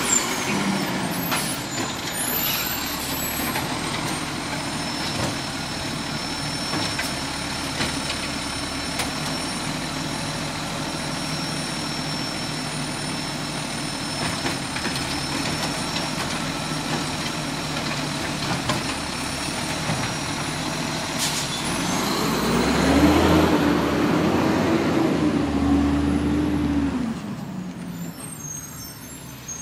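Garbage truck running with a high steady whine over its engine, and a few sharp clicks. About three quarters of the way through, the engine revs up and holds for about five seconds, then drops and the sound fades away.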